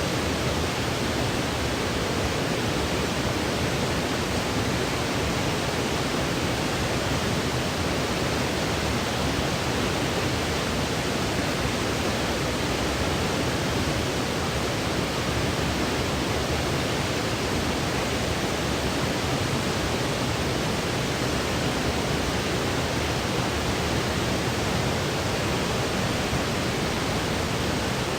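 Continuous generated white noise for sleep: a steady, even hiss that never changes.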